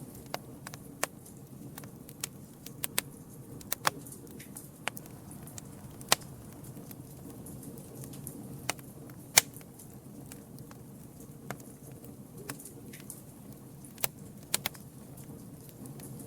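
Campfire crackling: sharp irregular pops and snaps from the burning wood over a steady low rumble of the flames, with the loudest snap about nine seconds in.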